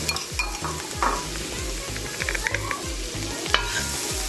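Curry sauce of ground seasoning, garlic and onions sizzling as it fries down in a pan, with a metal spoon stirring through it and clicking against the pan now and then.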